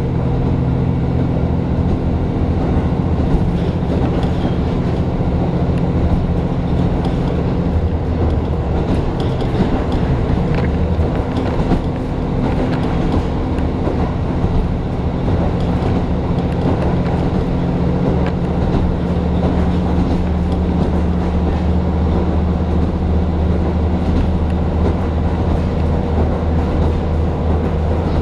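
Diesel railcar heard from inside the passenger car while running: a steady engine drone over the rumble and clatter of wheels on the rails. The engine tone fades for several seconds in the middle, then comes back.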